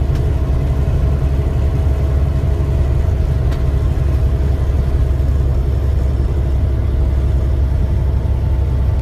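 Semi truck's engine running with a steady low rumble.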